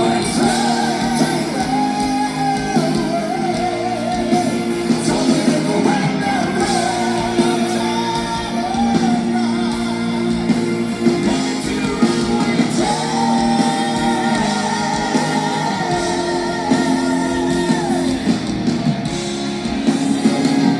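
Live symphonic metal band performing: electric guitars, drums and keyboards play sustained chords under singing with long held, wavering notes, one held for about five seconds past the middle.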